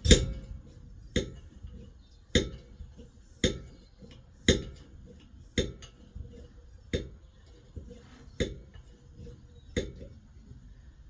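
Hand pump on an ex-Swiss Army petrol stove being worked to pressurise the fuel tank, about nine metallic clacks roughly one a second that stop near the end. The owner suspects the pump's seals have dried out from disuse, so the tank has been slow to build pressure.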